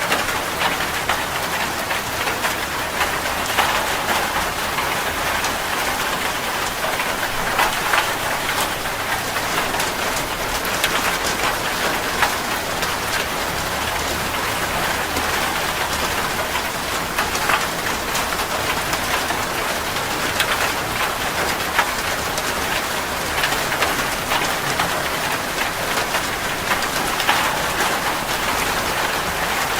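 Heavy rain drumming steadily on a metal roof: a dense hiss with countless sharp individual drop strikes.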